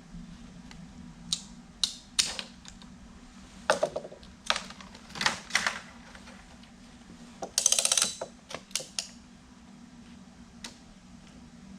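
A ratchet strap being worked and cinched tight around a stack of slabs: separate clicks and knocks, then a quick rattling run of ratchet clicks about eight seconds in, and a few more clicks after. A steady low hum runs underneath.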